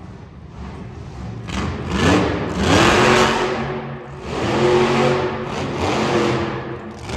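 Monster truck engine revving hard several times, its pitch sweeping up and then holding, with a brief drop about four seconds in.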